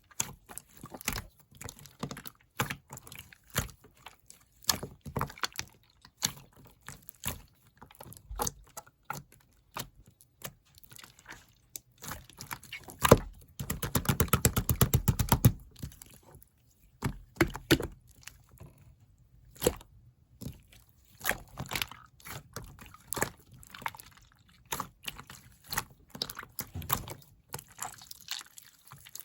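Soft, jelly-like strawberry slime being squeezed and poked by hand, giving scattered sharp wet clicks and pops. About halfway through comes a quick, loud run of crackling pops lasting about two seconds.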